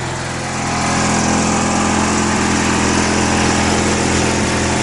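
1979 Roper 16T garden tractor's 16 hp Briggs & Stratton opposed-twin engine running steadily, getting louder about a second in.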